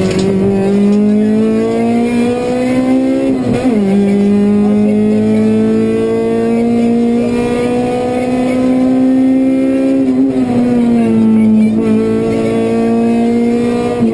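Honda Civic Type-R rally car's four-cylinder engine pulling hard, heard from inside the cabin: its pitch climbs steadily, drops sharply at an upshift about three and a half seconds in, then climbs again through a long gear, easing briefly about ten seconds in.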